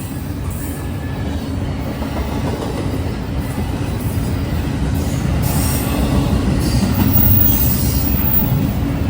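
Freight train rolling past: a steady rumble of cars on the rails, growing slightly louder, with a few brief high-pitched wheel squeals in the second half.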